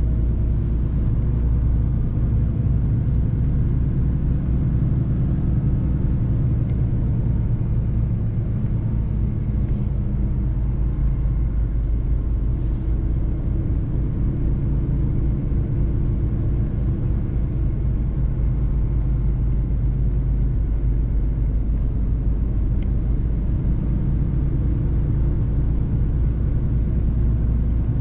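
Mercedes-Benz truck driving at a steady pace: a constant low engine and road rumble.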